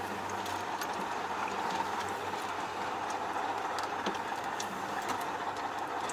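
MAZ-5440 tractor unit driving, heard from inside the cab: steady engine and road noise with scattered light clicks and rattles.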